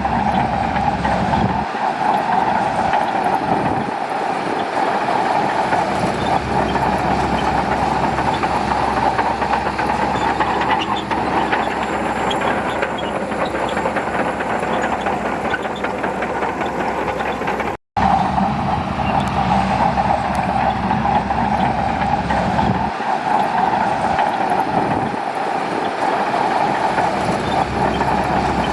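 Shantui bulldozer's diesel engine running steadily under load, with the rattle and clank of its steel tracks. The sound cuts out completely for a split second a little over halfway through, then carries on the same.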